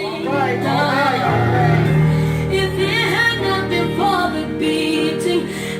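Gospel song: a voice singing a wavering melodic line over sustained low instrumental chords.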